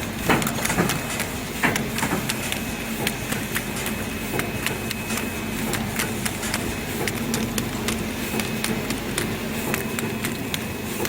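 4-lane aluminium Nespresso capsule filling and sealing machine running, a steady mechanical hum with frequent quick clicks and knocks from its moving parts.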